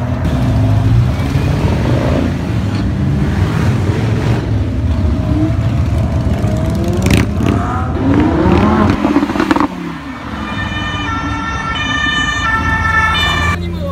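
Sports car engines revving and accelerating away, the pitch rising and falling as they rev. About ten seconds in the engine sound drops suddenly, and a series of steady high tones follows, stepping between several pitches like a siren, over a lower engine hum.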